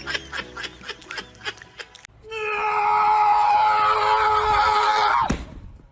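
Quick rhythmic clicking for about two seconds, then a loud scream held at one steady pitch for about three seconds that cuts off suddenly.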